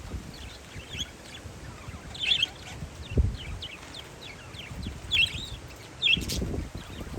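Parakeets chirping in a few short clusters of quick, high chirps, over low rumbling gusts of wind buffeting the microphone.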